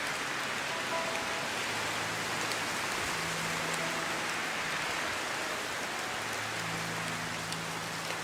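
Steady rainstorm, a dense even hiss of rain falling on a surface, with faint scattered drop ticks. Under it, faint low held tones come and go.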